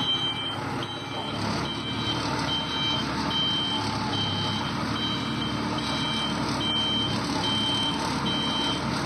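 A vehicle's reversing alarm beeping steadily, a short high beep about every 0.8 seconds, over a running engine.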